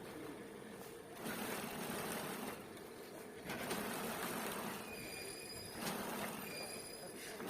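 A small machine running in repeated surges of a second or two, with quieter gaps between them.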